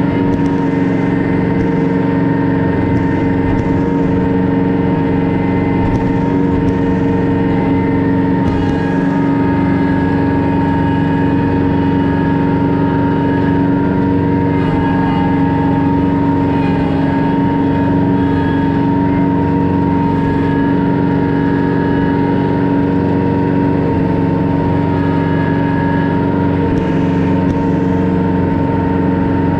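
Kubota B3000 compact tractor's three-cylinder diesel engine running steadily at a constant speed.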